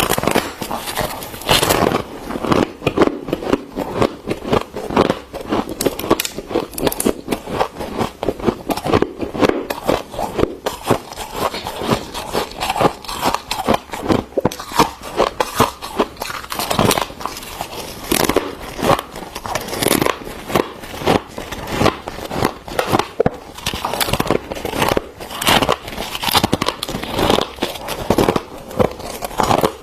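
Thick frost being scraped from a deep freezer and bitten and chewed: a dense, unbroken run of crisp crunches and crackles, several a second.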